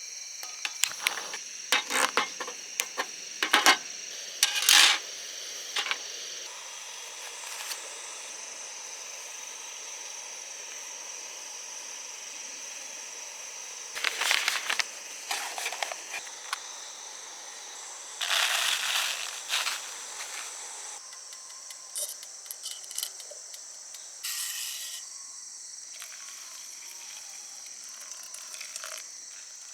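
Crickets or other insects trilling steadily and high, with scattered sharp metallic clinks and short rustling bursts from things being handled, thickest in the first few seconds and again about halfway through.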